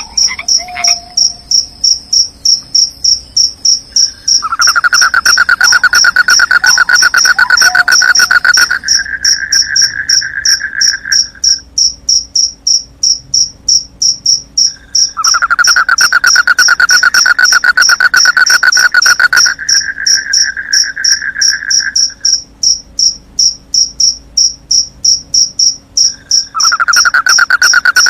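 Crickets chirping in an even pulse a few times a second, with a lower, steadier insect trill coming in three long bouts of several seconds each. A few faint frog croaks near the start and again about seven seconds in.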